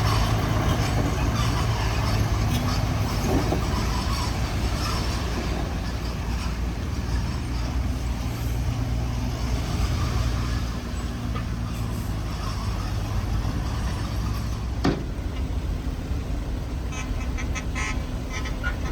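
Heavy diesel construction machinery running steadily, a low engine drone. A single sharp knock comes near the end, followed by a run of quick clicks and rattles.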